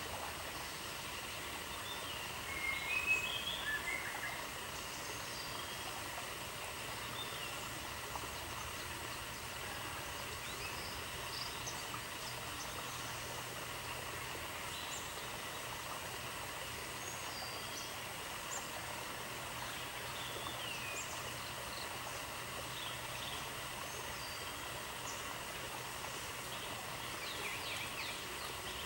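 Outdoor ambience: a steady hiss with scattered short bird chirps, loudest in a cluster about three seconds in and more frequent near the end.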